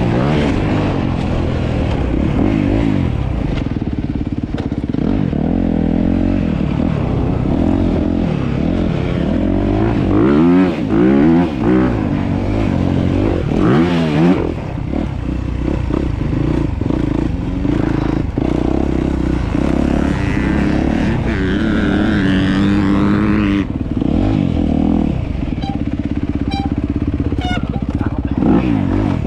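Dirt bike engines running and revving, the pitch climbing and falling with the throttle, with several quick rises and falls in the middle. About three-quarters of the way through, one engine holds a steady note for a couple of seconds, then drops away suddenly.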